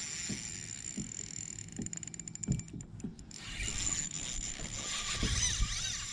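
Water swishing along a kayak hull as a hooked carp tows the boat, with scattered low knocks from the hull and gear.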